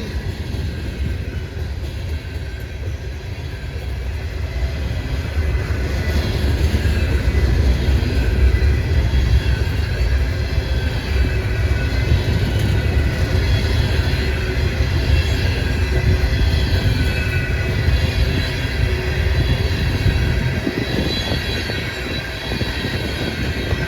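Loaded coal train's hopper cars rolling past: a steady heavy rumble of wheels on rail with faint high ringing tones above it. The rumble eases about twenty seconds in as the last cars go by.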